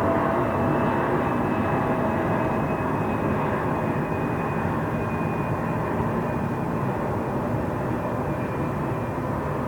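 Train station ambience dominated by a steady rumble with a faint high whine above it, easing slightly toward the end.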